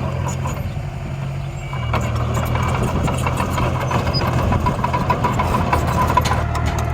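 Miniature model construction machines running: a steady motor hum with a wavering whine that picks up about two seconds in, and scattered small clicks.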